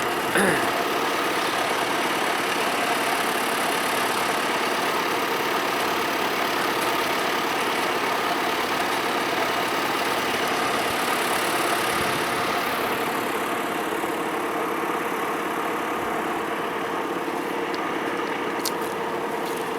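Tractor diesel engine running steadily for the whole stretch, an even drone with no change in speed.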